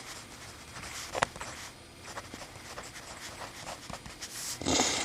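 Small clicks and rustles of mechanical pencils being handled, with one sharper click about a second in. A short rush of noise comes near the end.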